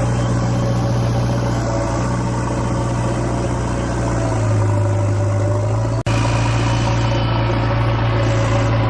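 A motor running steadily with a low, even hum, its pitch sinking a little about four and a half seconds in. The sound drops out for an instant about six seconds in, then carries on.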